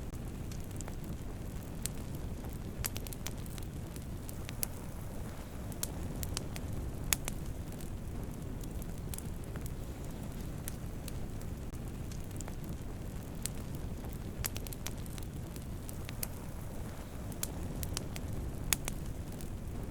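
Wood fire burning with a steady low rush of flames and frequent sharp crackles and pops, a few louder pops standing out.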